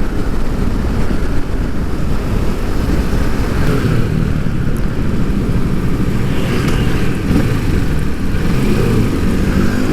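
Kawasaki motorcycle engine running steadily while riding, heard from the rider's position with wind and road noise.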